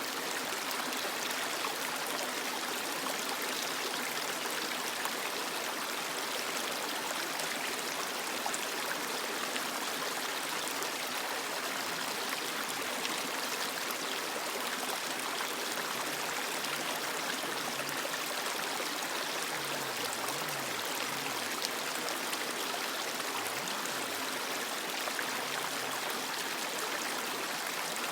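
Creek water flowing over rocks: a steady rushing and babbling with small splashes, even in level throughout.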